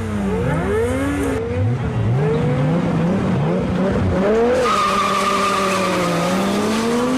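Sports car engines at full throttle, their pitch climbing and dropping back again and again as they shift up through the gears. From about halfway in, a steadier high-pitched tone runs over the engines.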